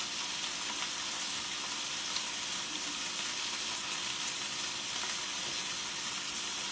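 Food frying in oil with a steady sizzle.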